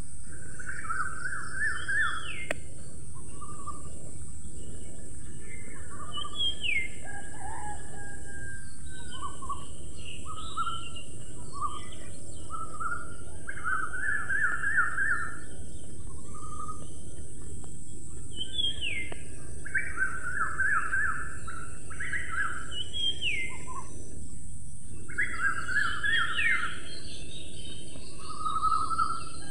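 Birds calling repeatedly, in phrases of quick stuttering notes and short rising whistles every few seconds, over a steady hiss of outdoor background noise.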